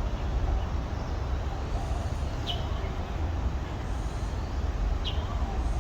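A bird gives a short, high call twice, about two and a half seconds apart, over a steady low rumble.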